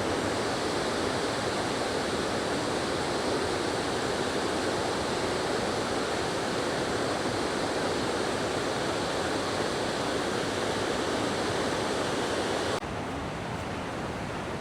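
Steady rushing of a waterfall. About thirteen seconds in it drops suddenly to a quieter, duller rush.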